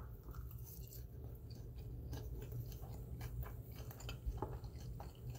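A person chewing a mouthful of pizza fries, faint, with soft scattered mouth clicks.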